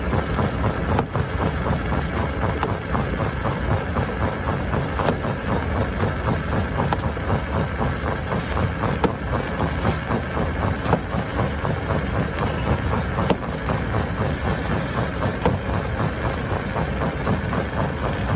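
Stone crusher machinery running steadily, a dense mechanical din with occasional sharp knocks.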